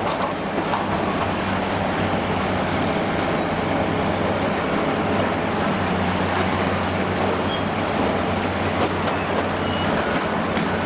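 Large demolition excavator's diesel engine running steadily under load, with a dense rattle and scattered clicks of debris.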